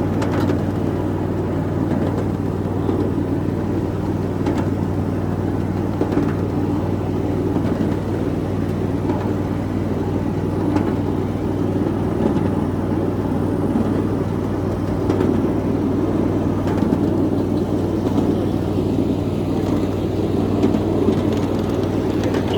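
7.5-inch gauge ride-on miniature train running along its track: a steady low hum and rumble, with a few faint clicks scattered through it.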